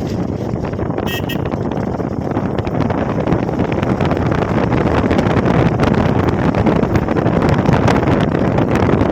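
Steady wind rushing over the microphone of a Hero XPulse motorcycle under way, with the ride noise growing a little louder about three seconds in. A brief high tone sounds about a second in.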